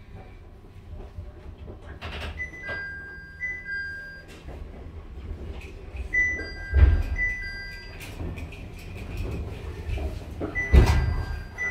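Inside a JR 701-series electric train running at speed: a steady low rumble of wheels on rail with two heavy jolts about seven and eleven seconds in. Three times, the alternating two-tone electronic bells of level crossings sweep past briefly.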